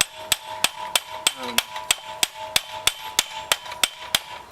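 Hand hammer striking hot steel rebar on a railroad-track anvil in a steady rhythm of about three blows a second, each blow leaving a metallic ring that hangs between strikes, as the spoon blank is forged to shape.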